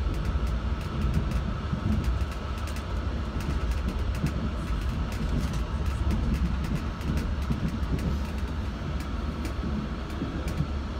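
Moving passenger train heard from inside the carriage: a steady low rumble of the running train, with many light, sharp clicks scattered throughout.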